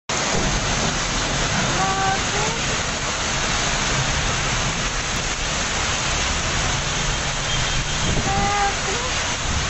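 Torrential rain and hail pouring down on the street and the roofs in a dense, steady hiss, with passing traffic rumbling underneath. Faint voices come through briefly about two seconds in and again near the end.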